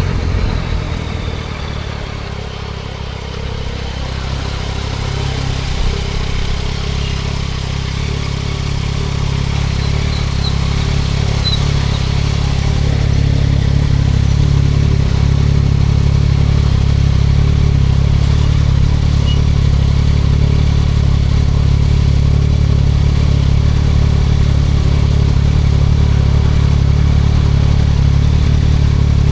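2024 Yamaha MT-09 SP's inline three-cylinder engine running through an aftermarket Spark exhaust under way. The low engine note is softer for the first few seconds, then builds gradually to a steady cruise.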